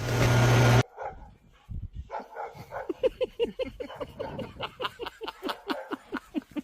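A loud steady hum cuts off suddenly near the start. A dog then barks in a quick run of short, yappy barks, about four or five a second, each dropping in pitch.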